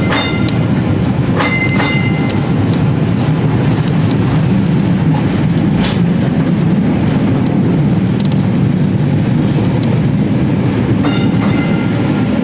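A streetcar rolling along its rails, heard from on board: a steady, loud rumble, with a few sharp clacks that ring briefly near the start and again near the end.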